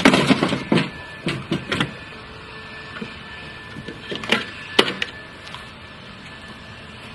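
Lawnmower running steadily, with quick runs of cracking and clattering hits in the first two seconds and again around four to five seconds in: toy plastic being chopped by the blade.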